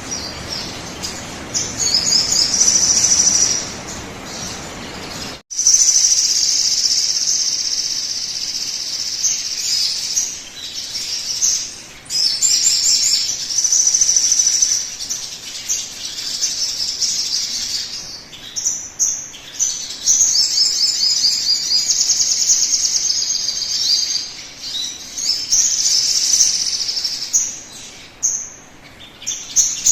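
Sogon birdsong played as a lure call: high, fast chirping trills in repeated phrases, with a sudden short break about five seconds in.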